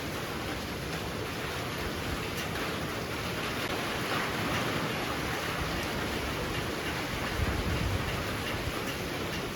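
Heavy rain pouring steadily, a dense even hiss that swells a little around the middle, with a short low surge near the end.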